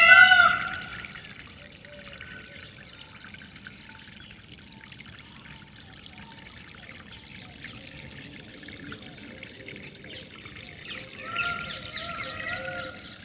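Water trickling and flowing steadily under birdsong. A loud, ringing bird call opens, then faint chirps, and from about eleven seconds in a busy run of short, repeated bird calls.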